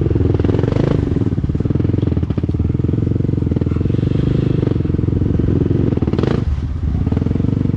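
Dirt bike engine running steadily, with a brief change in its sound about six seconds in.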